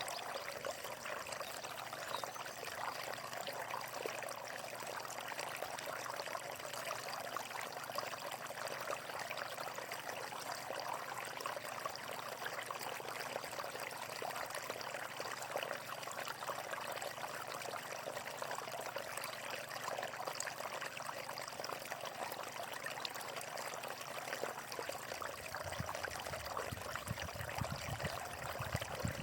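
Water flowing and splashing steadily, like a small stream. A low rumble joins in for a few seconds near the end.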